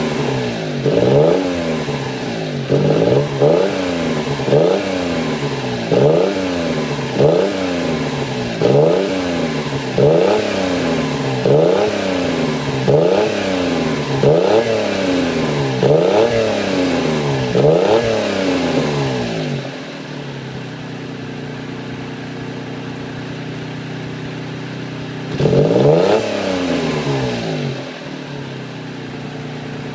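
Honda Beat PP1's 656 cc three-cylinder engine, breathing through an aftermarket muffler, being blipped over and over, about one quick rise and fall every second. It then settles to a steady idle, with one more rev near the end. It revs up poorly, which the owner puts down to stale petrol or a weak spark from the plugs.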